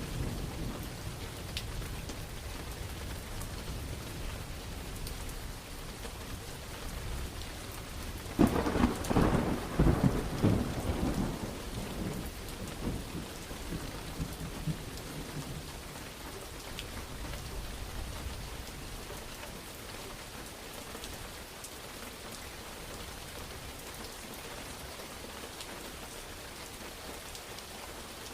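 Steady heavy rain falling, with a thunderclap about eight seconds in: a sudden sharp crack that rolls on as rumbling thunder and fades over several seconds. A low rumble from earlier thunder is dying away at the start.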